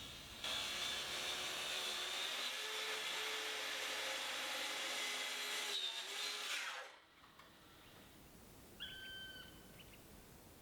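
Electric power tool, likely cutting wood, running with a steady whine for about six and a half seconds, then stopping. A short, faint chirp follows near the end.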